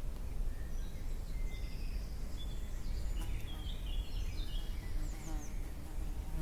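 Several songbirds singing short whistled notes and chirps, busiest in the second half, over a steady low rumble.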